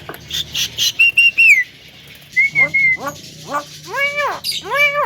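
Javan myna (jalak kebo) calling: a few short high whistles about a second in, then a quick run of rising chirps and two drawn-out arched calls near the end.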